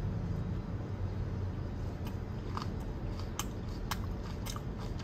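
A person chewing a piece of stir-fried fatty pork, with a string of small sharp mouth clicks starting about two seconds in, over a steady low hum.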